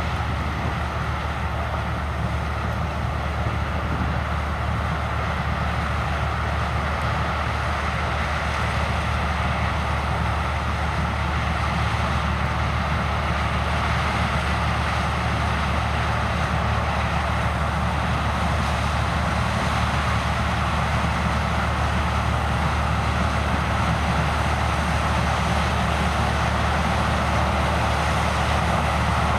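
Heavy farm machinery running steadily during corn harvest: a low, even engine drone under a broad rushing noise, getting a little louder after about twelve seconds.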